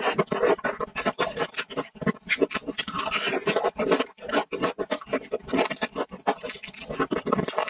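Close-miked eating sounds of a person biting and chewing a crumb-coated fried chicken leg: a dense run of quick crackly crunches and wet mouth smacks.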